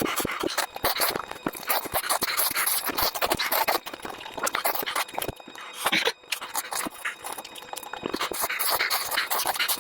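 Close-up mukbang eating sounds: wet chewing and lip smacking with many sharp clicks, from a person eating goat head meat.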